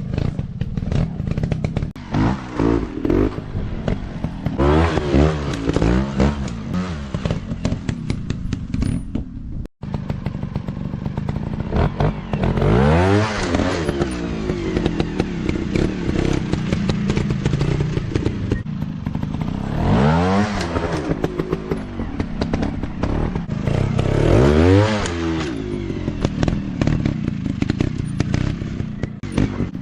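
Small 150 cc dirt-bike engines running, revved up and back down again and again, each rev a rising then falling pitch sweep over a steady engine drone. The sound cuts out briefly about ten seconds in.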